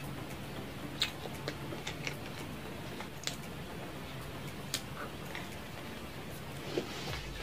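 Close-up chewing of a cheese pizza slice: scattered wet mouth clicks and lip smacks, with a bite into the slice near the end, over a low steady hum.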